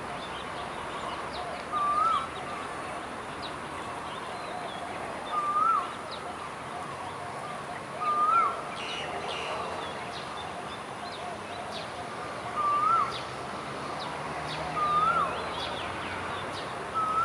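A bird repeating a short whistled call that rises and then drops, about every three seconds, with fainter chirps of other birds in the background.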